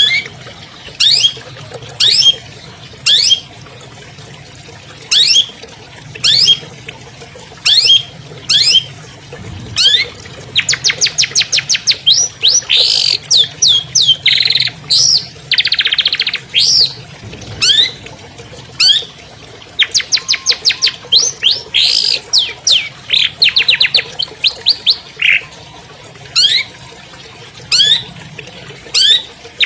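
Long-tailed shrike singing: a string of sharp whistled sweeps about once a second, broken by fast chattering trills and a buzzy note.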